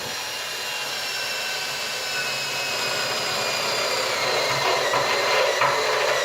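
Electric drill boring a hole through the steel wall of a 55-gallon drum: a steady grinding whine that grows gradually louder.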